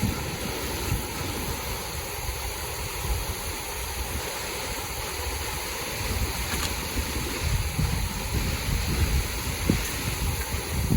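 Wind rumbling and buffeting on the microphone over a steady outdoor rush, with a couple of faint clicks.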